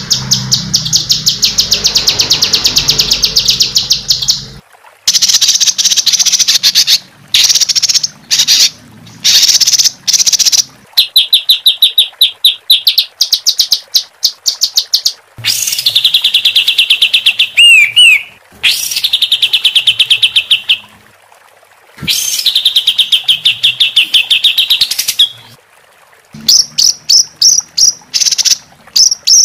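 Songbird singing fast rolling trills of harsh, rapidly repeated notes, in phrases a few seconds long with short pauses between. A couple of quick whistled glides come about 18 s in. Near the end the notes turn into quick separate sharp chips.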